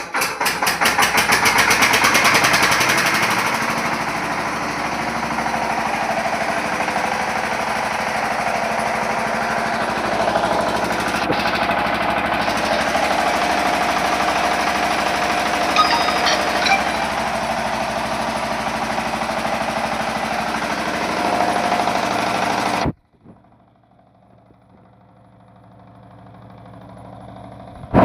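The 14 hp engine of a 10 kVA Bharat Gold generator set is running. It comes up to speed with a fast pulsing beat over the first couple of seconds, then runs steadily under load. About 23 seconds in the sound cuts off suddenly, leaving a few seconds of low sound.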